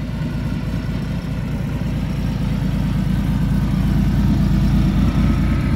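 Porsche 911 Turbo's air-cooled 3.3 L flat-six running, a steady low engine sound that grows slightly louder. The engine was not running well.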